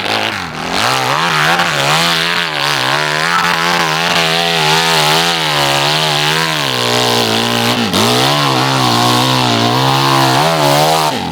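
Dirt bike engine revving hard close by, its pitch wavering up and down with the throttle, with a brief drop about eight seconds in; the sound cuts off abruptly near the end.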